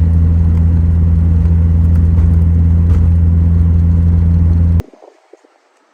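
Car engine running loud and steady at one constant speed, with no revving; it cuts off suddenly near the end.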